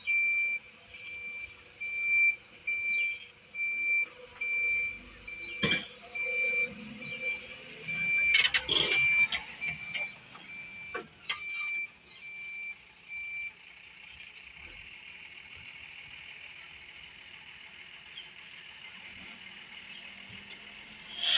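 Vehicle reversing alarm giving a single high beep about once a second, with a few sharp knocks partway through; the beeping stops about two-thirds of the way in, leaving a steady hiss.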